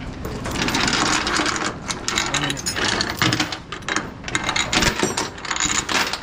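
Steel load-securing chain rattling and clinking as it is handled and pulled, a dense run of metallic clatter.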